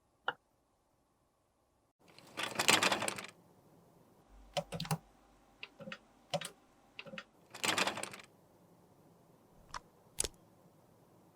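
Close-up handling sounds of makeup and small tools: scattered sharp clicks and taps, like typing, with two longer, noisier sounds of about a second each, one about two seconds in and one near eight seconds.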